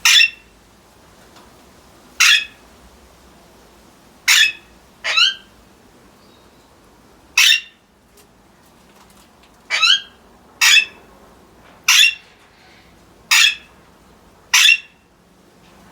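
Alexandrine parakeets giving loud, harsh squawking calls: about ten short calls spaced a second or two apart, some in quick pairs.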